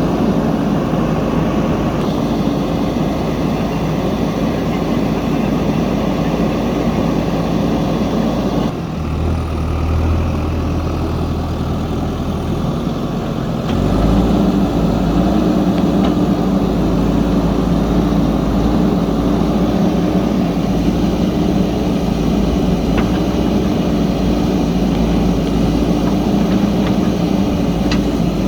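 Diesel engine of a JCB backhoe loader running. It dips about nine seconds in, then picks up louder around fourteen seconds in and holds a steady drone.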